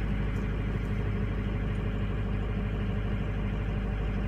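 Cold V8 diesel truck engine idling steadily and smoothly, with injector balance compensation switched off. Its injectors have stiction on the oil side, which makes it run rough when cold.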